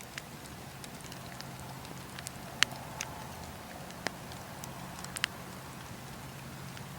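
Wood campfire crackling: irregular sharp pops and snaps, the loudest about two and a half seconds in, over a soft steady hiss.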